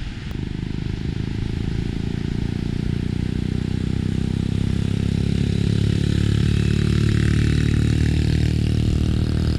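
A motor vehicle engine running, growing steadily louder over several seconds, then cutting off suddenly.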